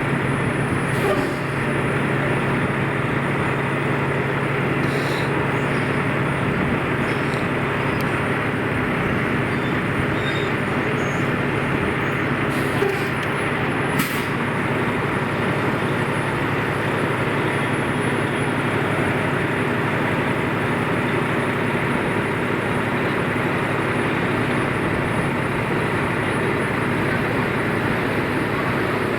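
Steady street traffic noise with a low, even engine hum, and a few faint clicks.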